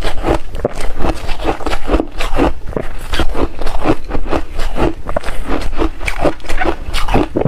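Close-miked chewing of re-shaved refrigerator ice: a steady run of irregular crunches, about two or three a second.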